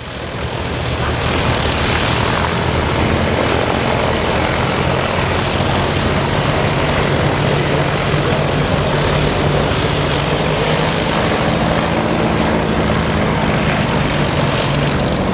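Propeller aircraft engine running loudly and steadily, a low, even drone under broad noise. It swells up over the first second.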